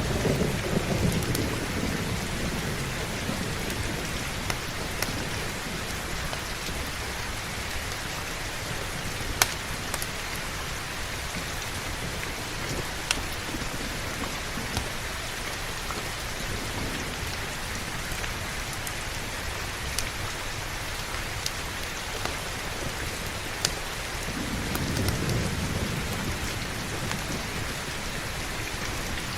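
Heavy rain falling steadily, with a low rumble of thunder fading out at the start and another rolling in a few seconds before the end. A few sharp crackles stand out now and then.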